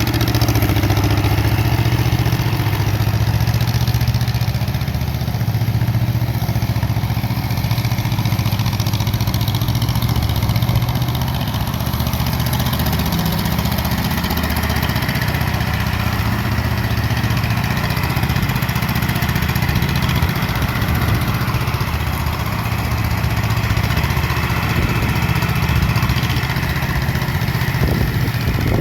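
Air-cooled 18 hp Wisconsin TJD engine on a 1963 Yazoo YR60 mower running steadily while mowing grass, with its belt-driven cutting deck.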